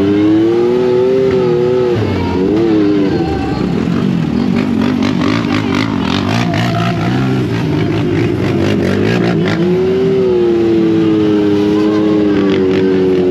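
A Yamaha turbo side-by-side engine running hard, its pitch rising and falling as the throttle changes. Through the middle stretch there is a dense run of knocks and rattles over the engine.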